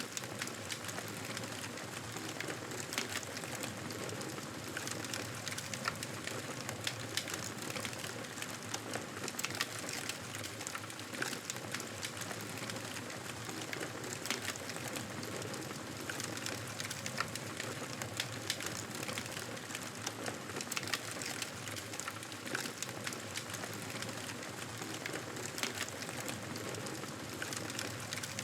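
Wood fire burning steadily, with a constant hiss and frequent small crackles and pops throughout.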